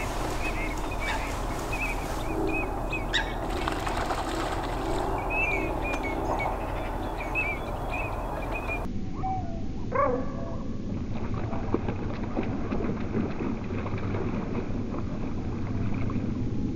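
Wetland birds calling: many short chirping calls over a steady low hum. About nine seconds in the sound turns deeper and drawn-out as the recording is played slowed down.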